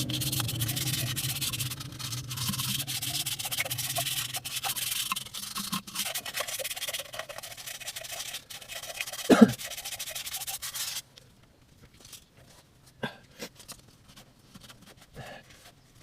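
Steady abrasive scraping or rubbing on a hard surface for about eleven seconds, with a short squeal falling in pitch near its end. After it stops, a few light clicks and taps follow.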